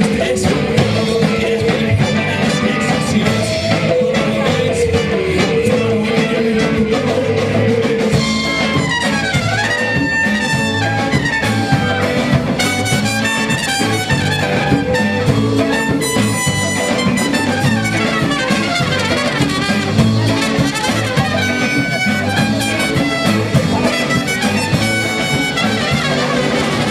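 Live band playing an instrumental passage over a steady beat and bass. From about eight seconds in, a high brass melody line comes in over the groove.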